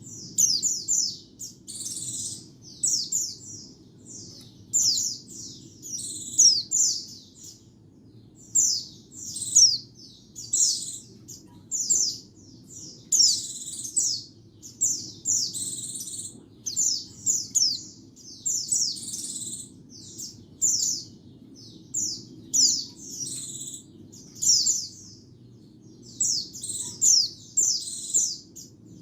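Pleci (white-eye) singing a fast, high twittering song of quick chirps in short bursts about every second, with brief pauses between phrases.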